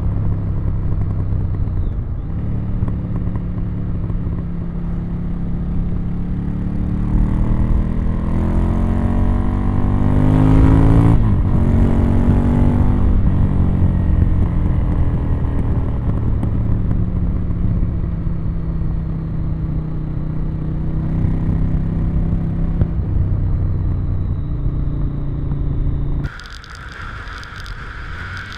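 Ducati Monster 1100 EVO's air-cooled L-twin running through its original exhaust while riding. The engine pulls up through the revs to a peak about eleven seconds in, then eases back to a steady cruise. Near the end the sound abruptly drops in level and turns thin and windy.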